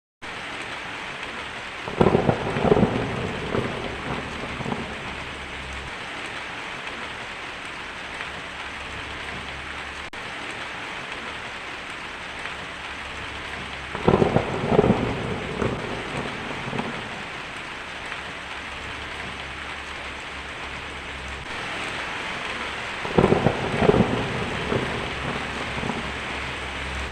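Steady rain with three claps of thunder, about a dozen and then nine seconds apart, each crackling sharply and then rolling away over two or three seconds.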